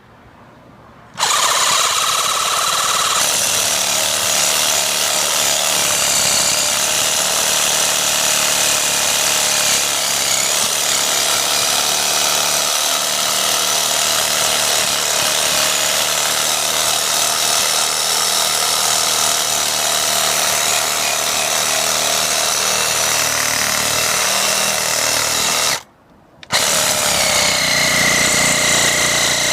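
Ryobi cordless reciprocating saw with a pruning blade, cutting through a starfruit tree branch. It starts about a second in and runs steadily, stops briefly near the end, then starts again.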